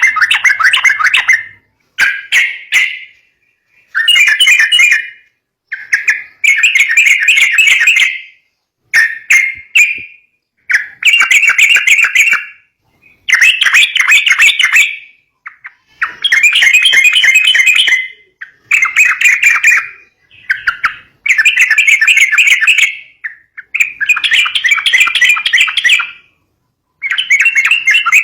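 Yellow-vented bulbul (trucukan) calls: bursts of fast, chattering notes, each lasting a second or two, repeated about a dozen times with short silent gaps between them. The recording is played as a lure call for the birds.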